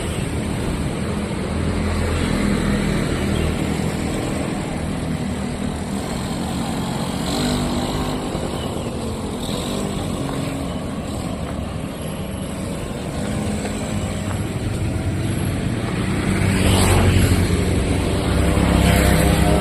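Street traffic: motor vehicles running and passing by, with one passing close about three-quarters of the way through.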